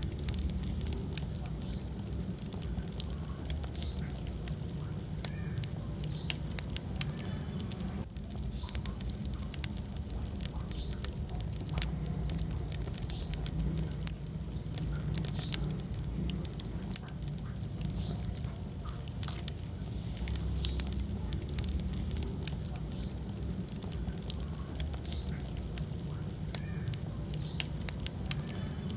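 Wood fire burning in a fireplace: steady crackling with many sharp pops over a low rumble of the flames. One pop about seven seconds in stands out above the rest.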